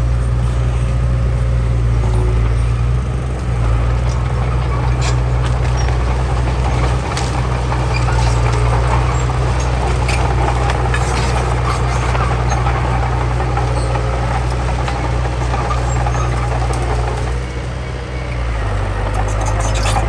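The diesel engine of heavy earthmoving machinery running steadily, with scattered metallic clanks and clicks. The engine note shifts near the end.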